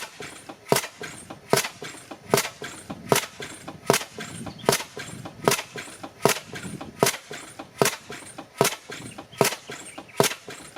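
Bessemer 12 hp gas engine, a cylinder conversion on an old Innis steam engine, running steadily: a sharp bang about every three-quarters of a second, with softer clicks and knocks between.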